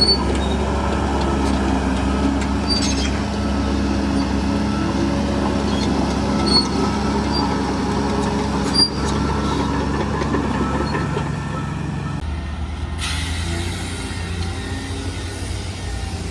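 Heavy earthmoving machinery's diesel engine running steadily, with a few short metallic squeaks. About twelve seconds in, the engine note changes and a hiss sets in.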